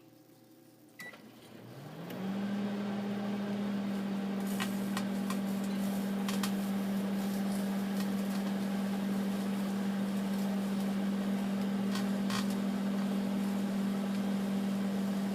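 Microwave oven beeps once as it is started, then runs with a steady low hum. A few sharp crackles sound over the hum, and the hum winds down near the end as the oven stops.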